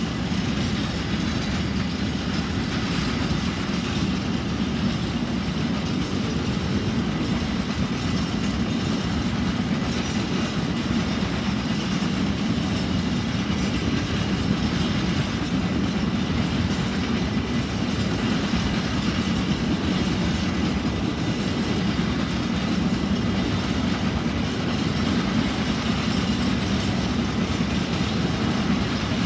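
Empty container flat wagons of a freight train rolling past steadily over the rails, a continuous rumble of wheels on track.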